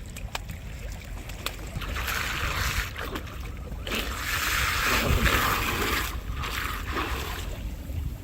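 Sea water washing and splashing in two surges, the second longer and louder, over a steady low rumble.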